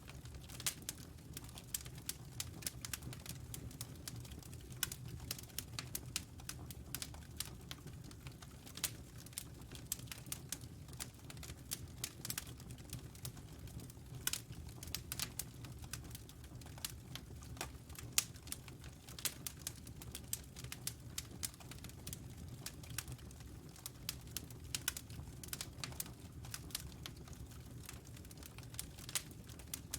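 Wood fire crackling in a fireplace: irregular sharp pops and snaps, several a second, over a low steady rumble of burning.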